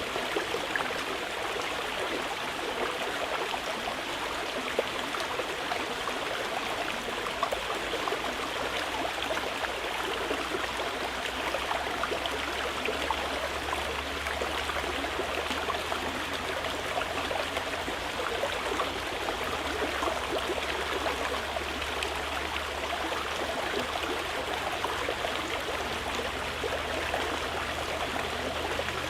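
Mountain river flowing over stones, a steady rushing and babbling of water.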